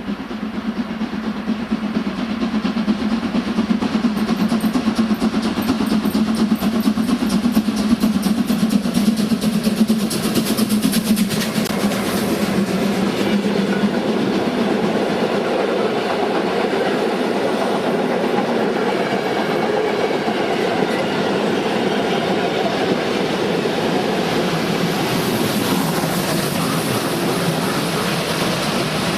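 A train running on the track, a loud steady rolling noise that builds over the first few seconds and then holds.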